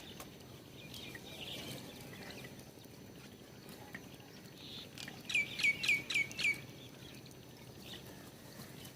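A bird calling at a feeder: a quick run of about six sharp notes, each sweeping steeply down in pitch, a little past halfway, among fainter chirps and small clicks.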